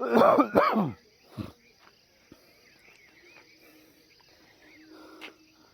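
Two loud, short voice-like calls that fall in pitch in the first second and a half, then steady high-pitched insect chirring with faint scattered chirps.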